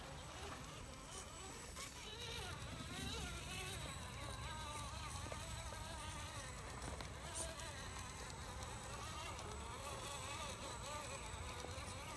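RC crawler truck's brushed 21-turn electric motor and geared drivetrain whining at low throttle, the pitch rising and falling as the truck crawls along.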